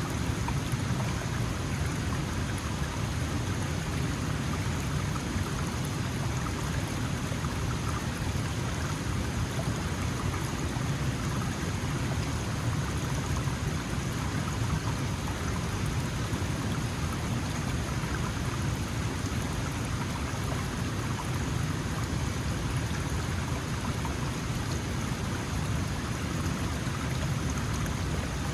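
Small mountain stream flowing over stones, a steady, unbroken rush of water.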